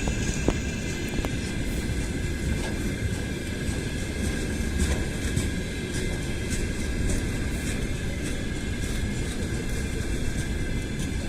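Freight train hauled by a VL10 electric locomotive running along the track: a steady low rumble with scattered light clicks.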